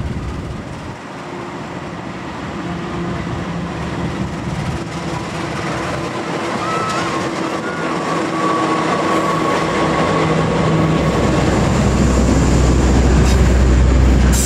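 Diesel-electric passenger locomotive running as it approaches and passes, its engine steady and growing louder. Rumble of the train's wheels on the rails builds to a heavy, loud rumble near the end as the coaches go by.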